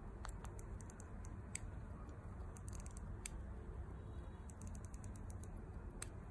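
Small sharp clicks at an uneven pace, some in quick clusters, over a low steady hum.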